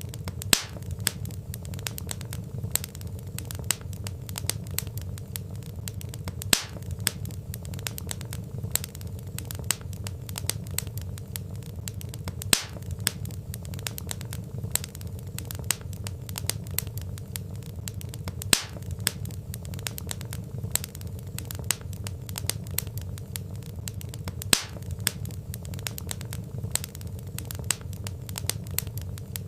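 Wood fire crackling: a steady low rumble of flames under constant small snaps and pops from burning logs, with a louder pop about every six seconds.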